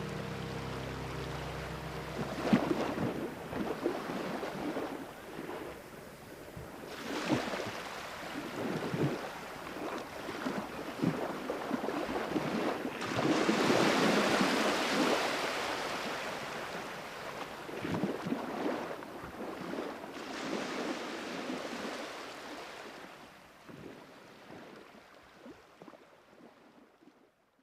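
Music ends about two seconds in, leaving sea waves washing in and out in slow, irregular swells that fade out near the end.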